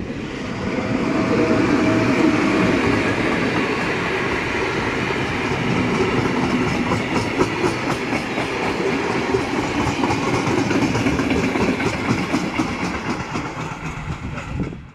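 Freight train of tank wagons rolling past close by behind an electric locomotive, a loud steady rumble and rail noise that swells in the first couple of seconds. In the middle, the wheels beat out a rhythmic clickety-clack over the rail joints.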